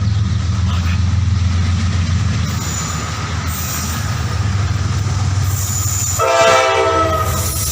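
A train running with a steady low rumble. About six seconds in, its horn sounds once for about a second.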